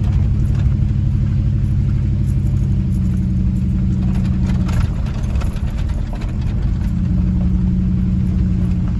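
Car engine and road noise heard from inside the moving vehicle, a steady low drone that eases off about five seconds in and picks up again about two seconds later.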